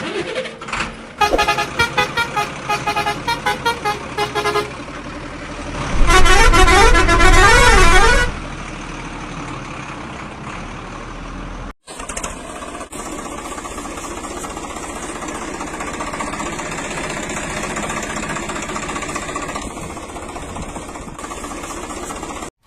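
Vehicle sound effects: a quick run of repeated horn beeps, then a loud horn blaring for about two seconds with its pitch going up and down. After a brief break about halfway through, a vehicle engine runs steadily.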